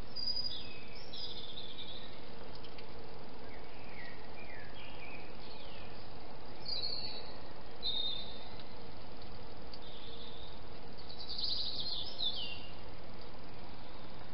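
A songbird singing short, high phrases that slide in pitch, in several groups, over a steady hiss of background noise.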